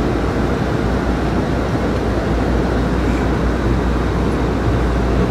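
Amtrak California Zephyr passenger train running at speed, heard from inside the car: a steady rumble and rush of wheels on the rails over a deep, even drone.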